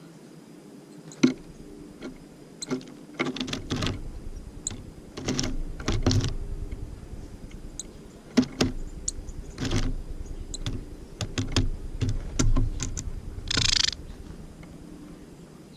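Tits at a bird feeder, close to the camera: irregular sharp taps and knocks as the birds land and peck, with a short rushing flutter near the end.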